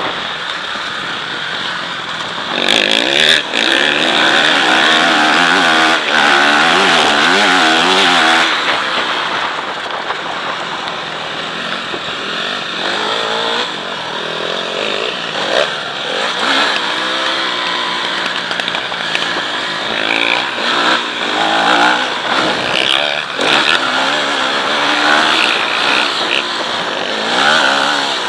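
Motocross bike engine revving up and down over and over as it is ridden around the track. It is loudest for several seconds a few seconds in, then rises and falls at a lower level.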